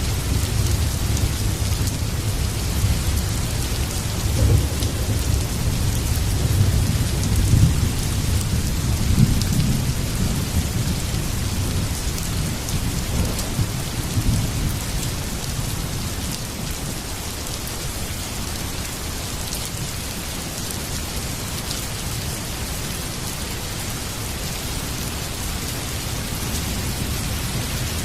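Heavy rain falling steadily, with a long low rumble of thunder through the first half that dies away around the middle, leaving the even hiss of rain.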